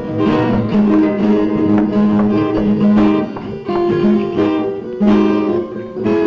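Instrumental music led by a plucked guitar picking a melody.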